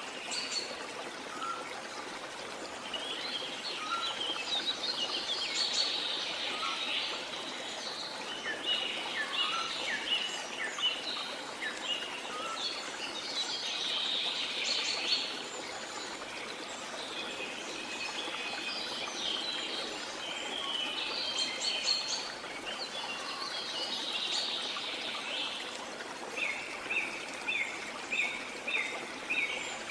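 Several birds calling and singing in varied, overlapping phrases over a steady background rush of flowing water. Near the end one bird repeats a short chirp about two or three times a second.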